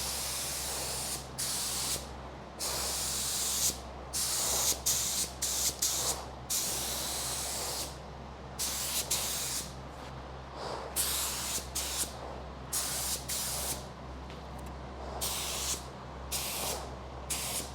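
Compressed-air paint spray gun spraying epoxy primer in repeated trigger pulls: bursts of hiss, each from about half a second to two seconds long, with short breaks between them. A steady low hum runs underneath.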